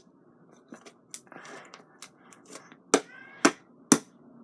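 Fluffy slime being squished and played with by hand: soft squelching, then three sharp popping clicks about half a second apart in the second half as air pockets burst.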